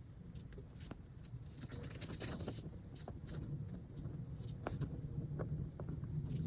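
Hand work on accordion reed plates: scattered light clicks, taps and scratching of small parts being handled, over a low steady hum.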